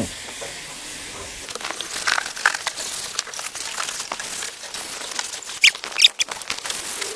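Cleaning the inside of a combine harvester cab: a soft hiss for the first second or so, then a cloth rubbing on surfaces with short squeaks and small clicks and knocks.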